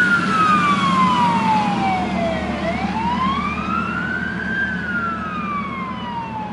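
Fire engine's siren on a slow wail: it falls in pitch, rises again, and falls once more, over the steady rumble of the truck's engine. It grows gradually fainter toward the end.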